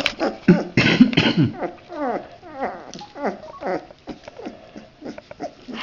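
Standard poodle puppies yelping and whining in play: a quick run of short calls that each fall in pitch, loudest in a noisy burst about a second in, then softer.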